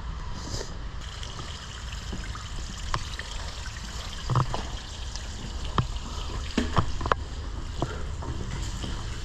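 Water trickling steadily through a stormwater drain tunnel, with scattered sharp knocks and clicks, a cluster of them about two-thirds of the way in.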